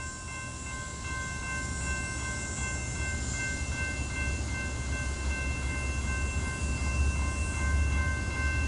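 An unseen diesel freight train approaching, a low rumble that grows steadily louder, with several faint steady high-pitched tones held over it.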